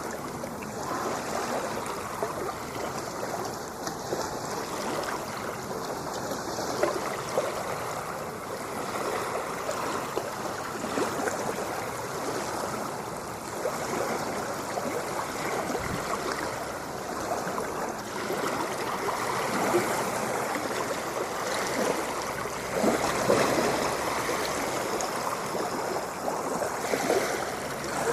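Ocean water washing and splashing: a continuous rush with some louder surges in the second half.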